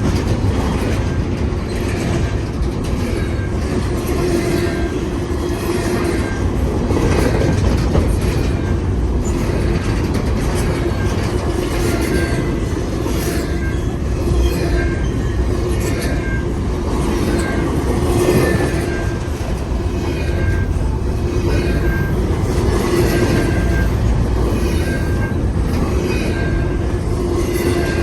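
Freight cars of a long intermodal train rolling past at close range: a steady loud rumble with wheels clicking over the rail joints and short high squeals recurring about once a second.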